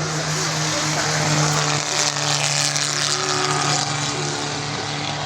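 Car engine running at a steady pitch, with a rush of wider noise that swells from about one to three seconds in.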